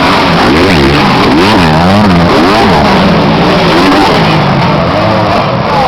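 Motocross motorcycle engines revving hard, their pitch rising and falling over and over as the throttle is worked.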